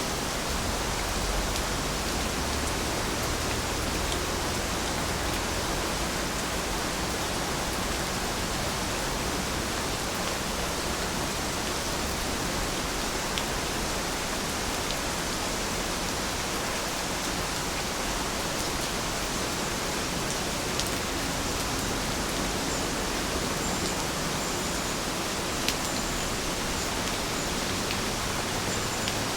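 Steady rain falling, an even hiss without let-up, with a few faint sharp ticks of single drops.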